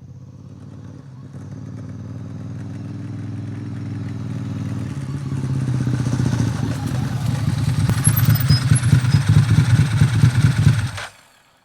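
Motorcycle engine running and growing steadily louder as it approaches, its pulsing exhaust beat strongest near the end, then stopping abruptly.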